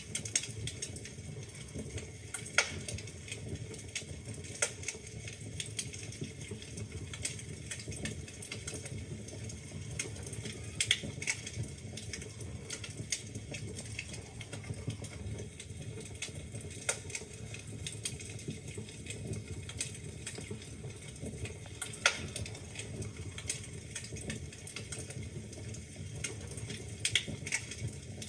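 Wood fire burning in a fireplace: a low steady rumble of flame with frequent irregular crackles and sharper pops from the burning logs, the loudest pop about 22 seconds in.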